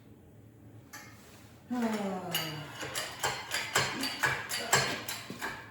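Metal hand tools clinking and clattering in rapid, uneven clicks as someone rummages through a toolbox or drawer. A short falling groan-like vocal sound comes just before the clatter starts.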